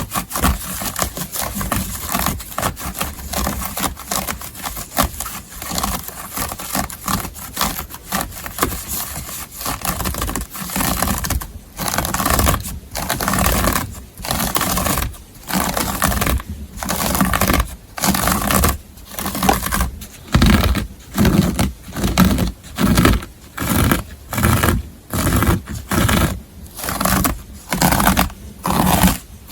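Close-up scratching on a textile surface. It starts as fast, dense scratching, and after about ten seconds it becomes slower separate strokes, about one a second.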